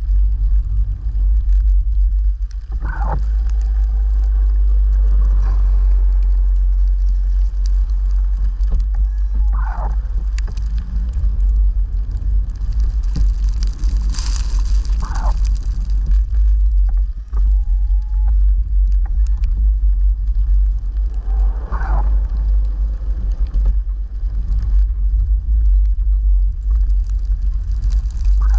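Vehicle engine running steadily with a deep rumble. Short squeaks come about every six seconds over it.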